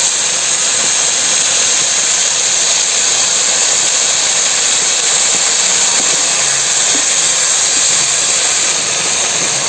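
Okra stir-frying in a hot aluminium wok, a loud, steady sizzle as sauce is poured in over it.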